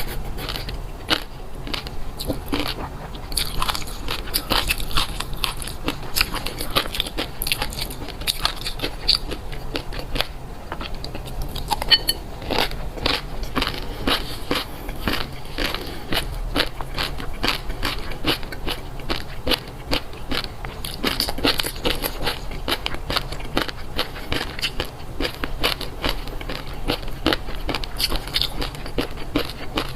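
A person chewing crunchy food close to the microphone: a dense, irregular run of crisp crunches and crackles.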